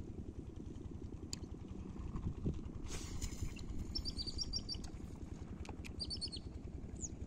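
Bird chirping in two quick runs of short high notes, about four and six seconds in, over a steady low rumble.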